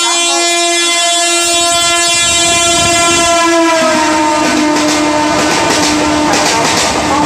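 Electric MEMU train's horn held as it approaches at speed, dropping in pitch as the train passes about three and a half seconds in. After that comes the loud clatter of its wheels over the rail joints.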